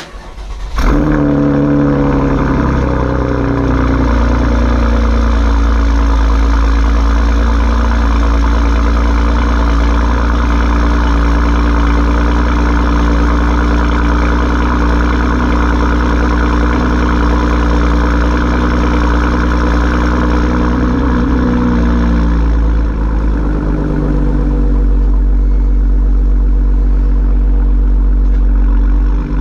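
Chevrolet Camaro's 3.6-litre V6 breathing through a Borla ATAK axle-back exhaust: it starts up about a second in, the revs flare and settle, then it idles steadily. About 22 seconds in the idle drops a little lower and stays steady.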